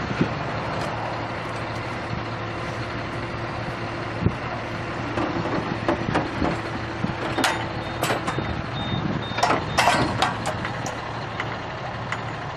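A heavy vehicle's diesel engine running steadily, with scattered sharp knocks and clanks, most of them in the second half.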